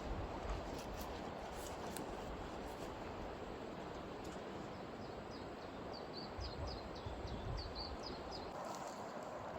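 Steady rush of a stream, with a small bird giving a quick series of high chirps for a few seconds around the middle.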